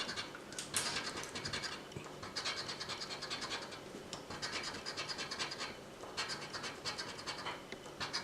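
A coin or scratcher scraping the coating off a lottery scratch-off ticket in quick, short strokes, in bursts of about a second with brief pauses between.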